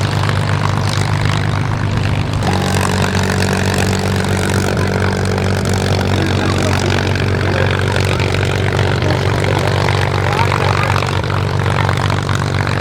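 Piston warbird fighter engines running steadily, a propeller aircraft's low even drone; the engine note changes, with a higher tone joining, about two and a half seconds in.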